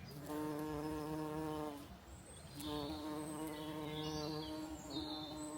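Bees buzzing on spring blossom in two long, steady buzzes. The first lasts a little under two seconds; after a short lull, the second lasts about three seconds.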